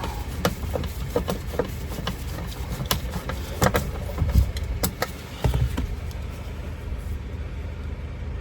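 Scattered clicks and light knocks of hand work on a truck's door trim panel as its screws go in, over a steady low rumble.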